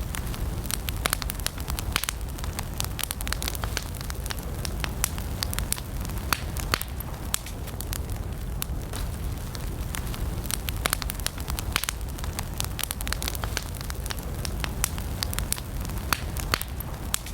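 Wood campfire burning, with many sharp irregular crackles and pops over a steady low rumble of the flames.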